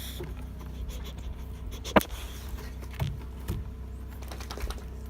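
Scattered light taps and clicks over a steady low hum, with one sharp click about two seconds in and a couple of soft thumps about a second later.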